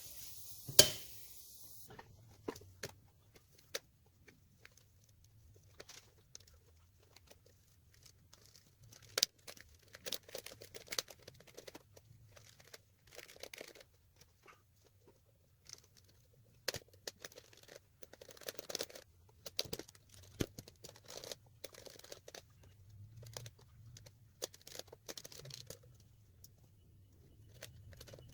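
Irregular clicks and scraping, rubbing noises from hands-on work on an old typewriter, with one sharp knock about a second in.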